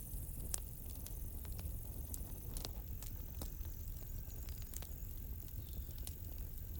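Campfire crackling: irregular sharp snaps and pops over a steady low rumble of the burning fire, with faint high cricket chirping in the background.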